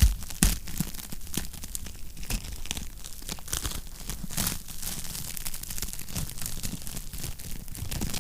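Wood fire crackling and popping, with two louder pops near the start, over a low steady rumble.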